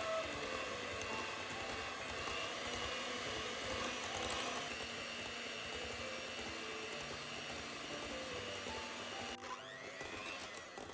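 A small electric kitchen appliance motor running steadily, with soft background music underneath.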